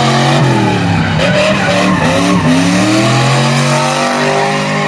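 A drift car's engine revving hard, its pitch dropping and climbing several times as the throttle is worked, over the hiss of tyres sliding and squealing on the pavement.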